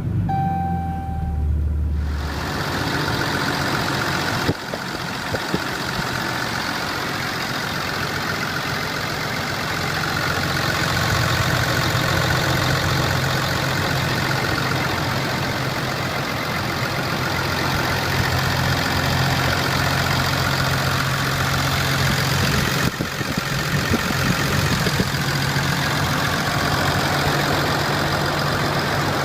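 Cummins 6.7-litre turbo diesel in a 2010 Dodge Ram 2500, idling steadily.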